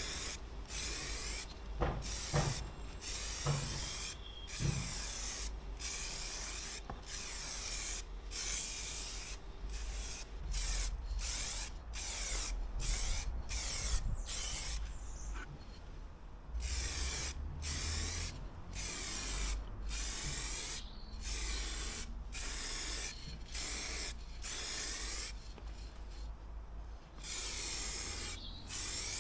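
Aerosol spray can of clear coat hissing in many short bursts with brief gaps between passes, with a few longer sprays in the second half.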